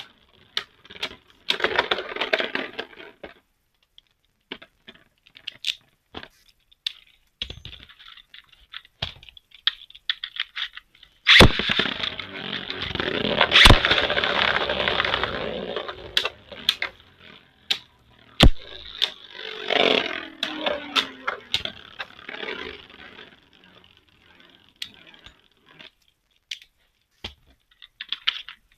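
Beyblade Burst tops (Xeno Xcalibur and God Valkyrie) spinning and clashing in a plastic stadium: sharp clicks and knocks, with stretches of rattling and scraping, the longest lasting about five seconds, a little over a third of the way in.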